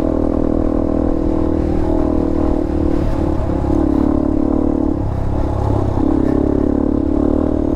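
Dirt bike engine running at a steady, moderate speed while riding, its pitch easing off and picking up again a few times.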